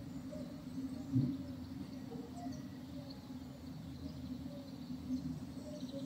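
Faint morning outdoor ambience: distant birds chirping over a low steady background hum, with a brief louder low sound about a second in.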